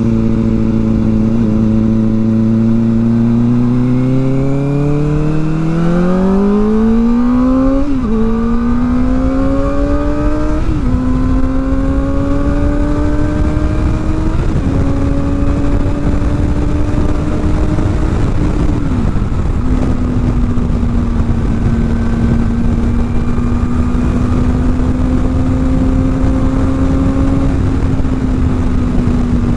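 Kawasaki ZX-4R inline-four with an aftermarket exhaust accelerating hard through the gears. The engine note climbs, then drops sharply at each of four upshifts, and settles into a steady cruise.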